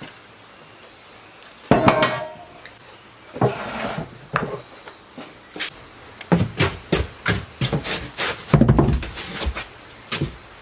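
Hand-tool work: irregular knocks, taps and clattering scrapes, in short uneven bursts, with the loudest clusters around two seconds in and near eight and a half seconds.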